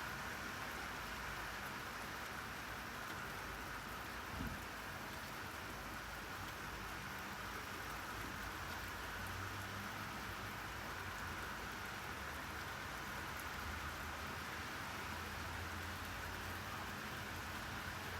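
Steady rain falling, an even hiss of drops on surfaces, with a single brief low thump about four seconds in.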